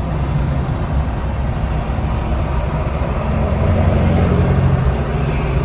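Engine and road noise from driving in heavy traffic, a steady low rumble. A deeper engine drone swells up about three and a half seconds in.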